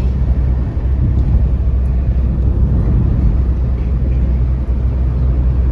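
Car driving along a road, with a steady low rumble of engine and road noise.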